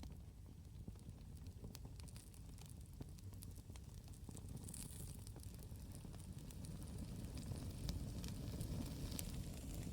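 Campfire burning with scattered sharp crackles and pops over a low, rumbling roar of flame that grows louder in the second half.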